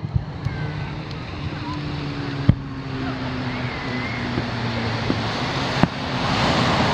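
Distant fireworks bursting: three sharp booms about three seconds apart, over the steady wash of surf and a low droning hum.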